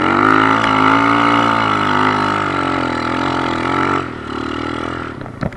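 Kawasaki KLX110 pit bike's small single-cylinder four-stroke engine running at steady, slightly wavering revs, then easing off about four seconds in.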